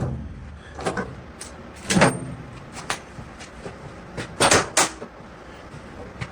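Several sharp knocks and clunks from work on a homemade car-body rotisserie and its mounts. The loudest comes about two seconds in, and a close pair about four and a half seconds in.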